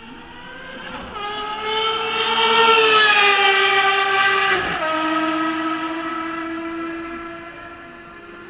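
A Ferrari race car passing at speed. Its engine note grows louder as it approaches and is loudest about three seconds in. The pitch drops suddenly as it goes by, near five seconds, and the note then fades as it pulls away.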